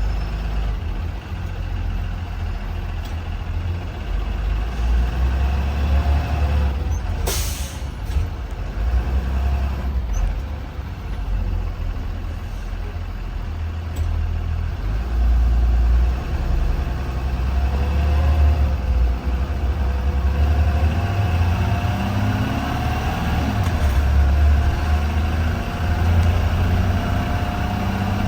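2020 Blue Bird Vision school bus under way, its engine a steady low rumble. There is a short air-brake hiss about seven seconds in, and a whine rises in pitch over the last several seconds as the bus picks up speed.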